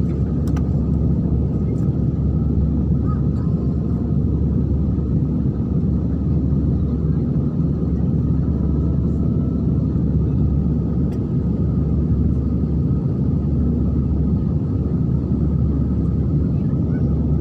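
Airliner cabin noise in flight: a steady low rumble of engines and airflow, with a faint steady whine above it.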